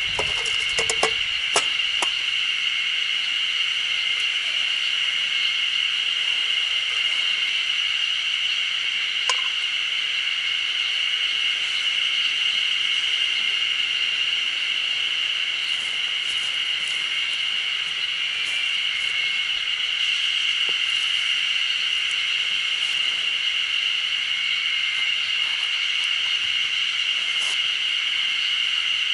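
Insects shrilling in a steady, unbroken chorus of a high, even pitch, with a few light clicks in the first couple of seconds.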